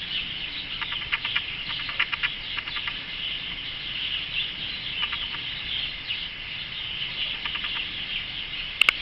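Male canary singing a continuous warbling song, broken by several rapid pulsed trills. A sharp click comes near the end.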